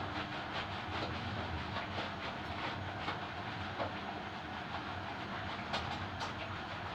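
Steady rushing of running water from a bath tap or sprayer, with faint irregular splashes.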